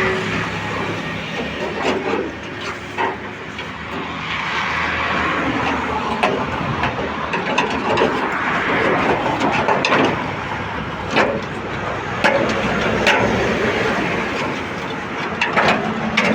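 Fabrication workshop noise: a steady rushing din with many scattered sharp knocks and clanks.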